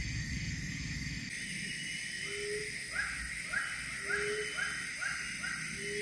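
Birdcalls: a series of six short rising notes, about two a second, starting about three seconds in, with a few short low notes among them. A steady high drone lies under them, and low rumbling noise drops away about a second in.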